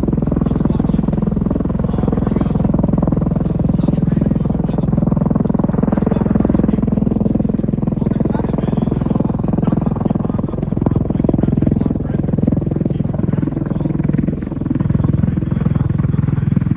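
MV-22 Osprey tiltrotor running loud and steady, its twin proprotors and turboshaft engines giving a fast throbbing beat.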